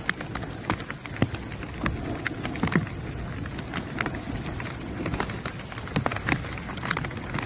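Rain falling, with individual drops ticking irregularly several times a second over a steady low rumble.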